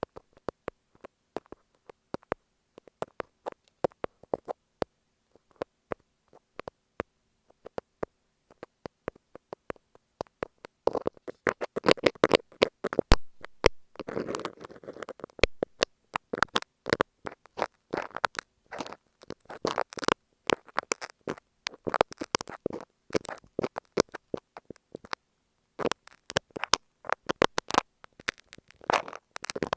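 Pointed metal tips, a thumbtack and then a dressmaker's pin, scratching and tapping on masking tape wrapped over an earphone microphone: sharp, crackly clicks close to the mic, sparse at first and much denser from about a third of the way in.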